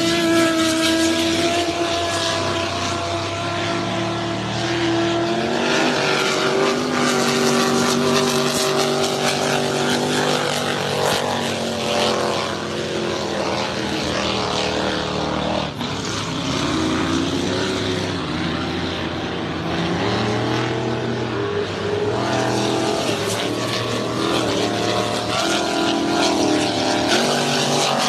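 Racing powerboat engines running hard, more than one engine pitch heard at once, with the pitch stepping and sliding up and down as the boats run.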